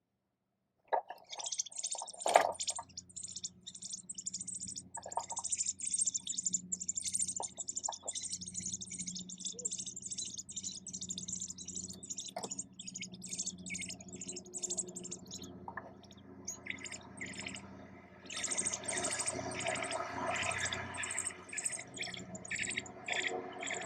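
Nestling birds chirping, many rapid high calls overlapping. The calls grow louder and fuller about three quarters of the way through.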